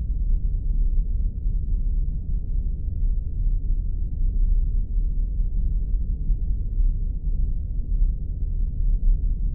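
Spaceship ambience sound effect: a deep, steady engine-like rumble with nothing above a low muffled band, unchanging throughout.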